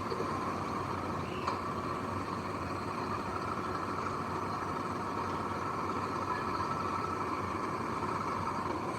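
Heavy diesel machinery engine running steadily, with a faint click about a second and a half in.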